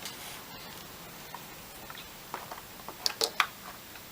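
Soldering iron tip being cleaned in its stand: a scatter of light clicks and taps, the sharpest few about three seconds in.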